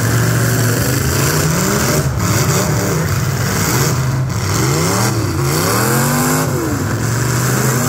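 Demolition derby cars' engines revving hard, rising and falling again and again, with several engines overlapping as the cars shove against each other with their wheels spinning.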